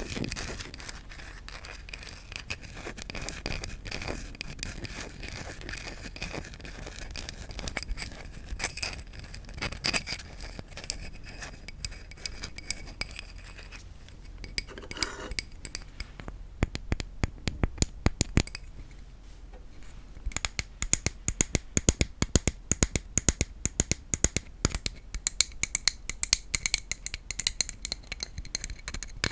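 Wooden objects being tapped and scratched for ASMR. First comes a dense, fast scratching with a faint ringing tone, then a brief pause. After that come quick, sharp taps that get louder in the second half.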